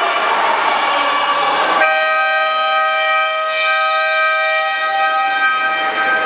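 Game horn sounding one long steady blast that starts suddenly about two seconds in and is held for about four seconds, the signal for the end of the quarter.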